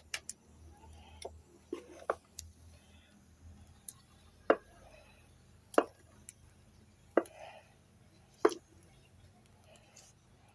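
Porridge pot cooking on a dry-firewood fire: scattered sharp pops and clicks, the loudest four coming about once every second and a half.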